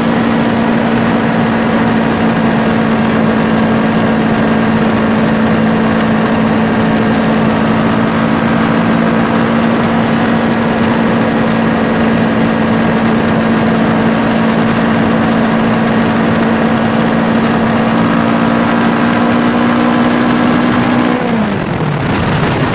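Kawasaki Ninja 650R's parallel-twin engine running at a steady cruising speed, with wind rushing over the microphone. About 21 seconds in, the engine note falls sharply as the throttle is rolled off and the bike slows.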